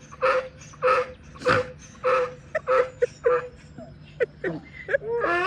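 Donkey braying: a long run of rhythmic hee-haw cycles, about two loud honks a second with a steady wheezing tone on each in-breath between them, with farts let off along with the bray.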